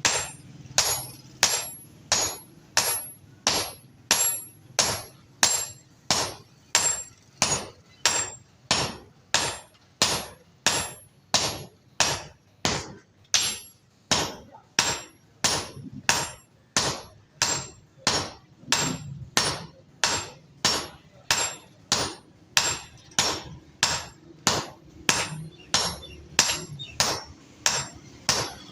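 Hand hammer striking a hatchet head being forged on an anvil, with steady, evenly spaced blows at about three every two seconds.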